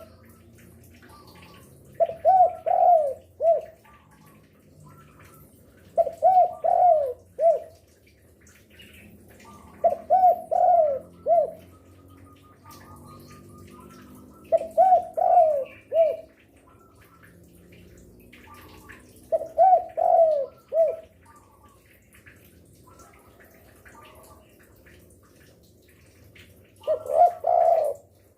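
Spotted dove (derkuku) cooing: six phrases of three or four low coos, one about every four seconds, with a longer pause before the last one. Faint chirps of other birds come between the phrases.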